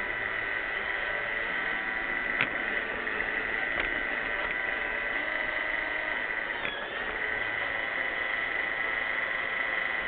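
Roomba 600-series robot vacuum running: a steady high motor whine over brush and suction noise, with a couple of light knocks. About two-thirds of the way through, the whine dips briefly in pitch and recovers.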